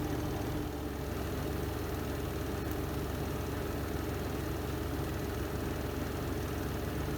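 Renova semi-automatic twin-tub washing machine's spin drum running in the spin cycle: a steady motor hum with an even vibrating drone. A faint humming tone fades out about a second in.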